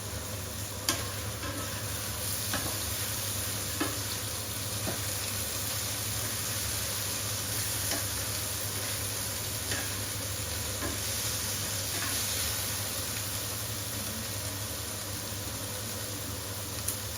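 Chicken pieces sizzling and spitting in a hot frying pan, a steady hiss with scattered pops and clicks, one sharp click about a second in.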